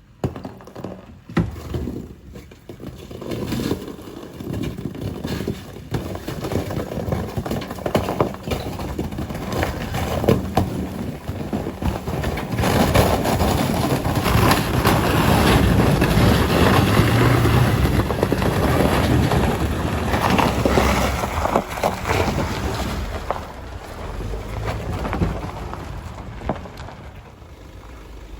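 SsangYong Rexton Sports pickup driving through a frozen creek crossing, its tyres crunching and breaking the ice in a dense run of cracks and knocks over the steady noise of the truck and water. It grows loudest about halfway through and eases off near the end.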